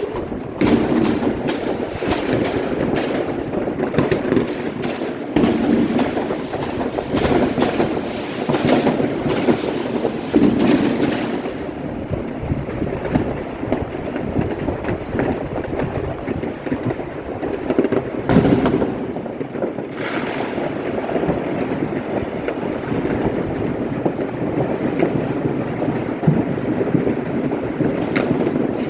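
Fireworks going off: many sharp bangs and cracks in quick succession for the first ten seconds or so, then a denser, steadier crackle and rumble with a few louder bangs standing out.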